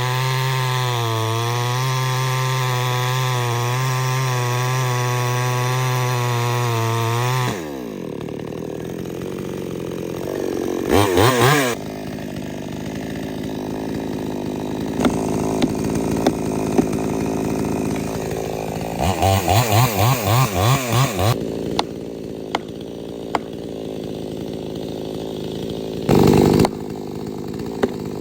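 Two-stroke chainsaw held at high revs for about seven seconds, its pitch wavering slightly, then dropping to idle. It is revved briefly once, then blipped about ten times in quick succession, and revved briefly again near the end.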